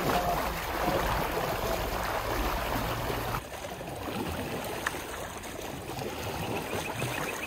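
Rushing floodwater: a steady wash of water noise. For the first few seconds a low engine hum runs under it, then about three seconds in the sound changes abruptly to a thinner water rush without the hum.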